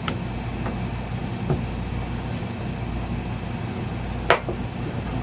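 Hydraulic power unit's pump motor running with a steady hum while it drives the bead breaker's cylinder out. One sharp click near the end.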